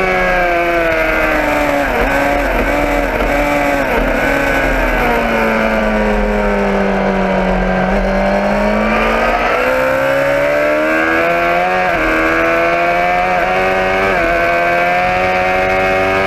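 Motorcycle engine under way. Its pitch falls slowly as it slows, then rises as it speeds up again, with two quick jumps in pitch in the second half, like gear changes.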